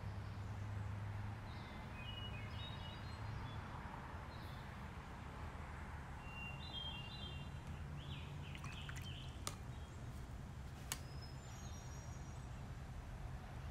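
Small birds chirping and singing in short repeated phrases over a steady low hum, with two short clicks in the second half.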